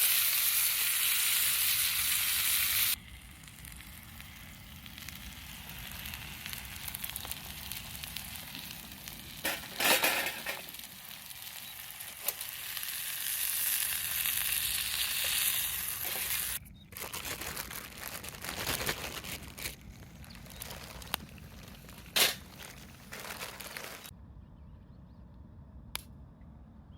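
Food sizzling over a camp fire stand, loud for the first three seconds and then cutting to quieter sizzling, with a few knocks and clatters.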